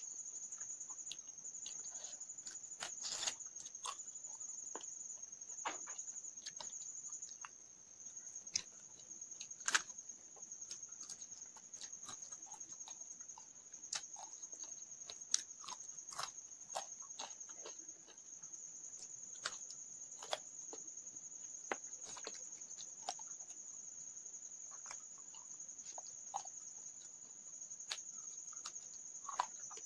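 Close-up eating sounds: a person chewing fried fish head and rice, with irregular sharp smacking clicks of mouth and fingers, over a steady high-pitched tone.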